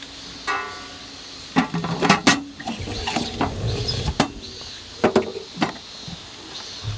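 Knocks and clatter of hard objects being handled and set down, about six sharp strikes, the loudest about two seconds in. Faint bird chirps sound in the background.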